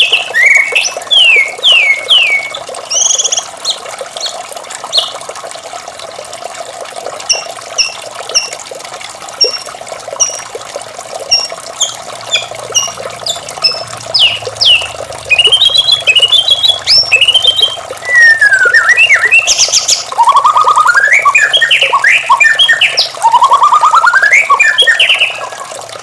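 White-rumped shama singing a varied song of clear whistles, quick downward-sweeping notes and rapid trills. The notes are sparse early on and become dense loud phrases in the second half. A steady rush of running water sits underneath.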